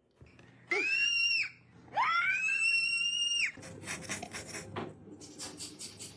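A parrot giving two long, high calls, each sweeping up sharply and then holding steady, the second one longer. A stretch of quieter scratchy rustling follows.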